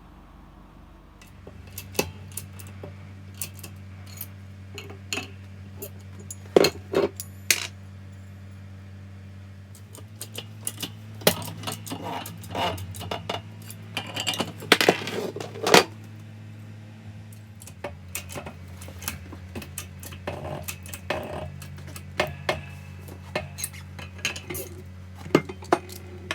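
Small metal parts and tools clinking and clattering against each other at irregular moments, with a steady low hum underneath that starts about a second and a half in.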